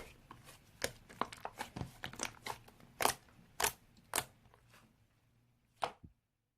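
Slime being squished and pressed by hand, a run of wet clicks and small pops with a few much louder, sharp pops. It stops about six seconds in.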